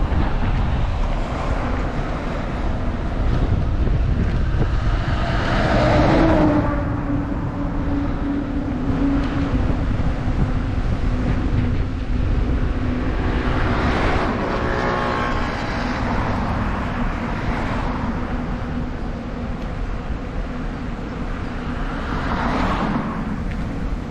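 Wind rumbling on the microphone of a moving bicycle, with motor vehicles passing three times: a quarter of the way in, in the middle, and near the end, each swelling and fading.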